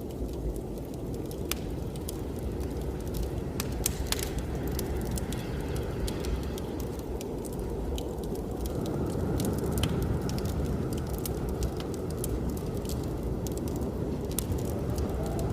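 Wood fire crackling, with irregular sharp pops and snaps, over the steady low rumble of blizzard wind; a faint wind whistle comes in about halfway through.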